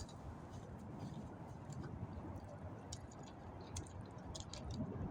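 Faint outdoor ambience: a low, uneven rumble with scattered soft clicks and ticks.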